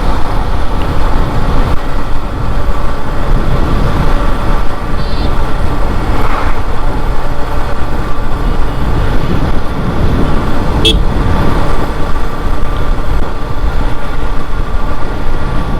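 Riding a Yamaha FZS motorcycle at road speed: steady loud wind rumble on the microphone over the engine and road noise. A short high tone comes about five seconds in, and a brief sharp sound about eleven seconds in.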